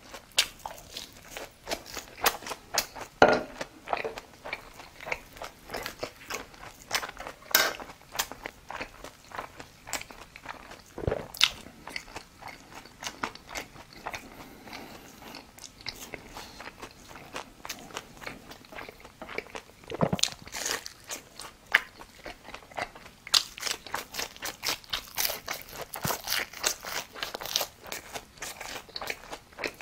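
Close-miked chewing and biting of crunchy food: a dense, irregular run of crisp crunches, with a few louder bites scattered through.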